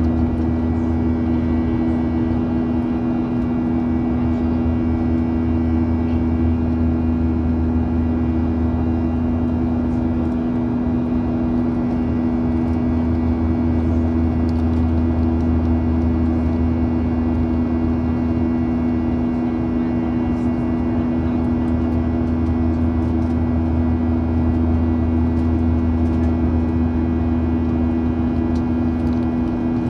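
Boeing 737-800's CFM56-7B jet engines running steadily, heard inside the passenger cabin: a loud, even drone with a constant deep hum and many fainter steady whining tones above it.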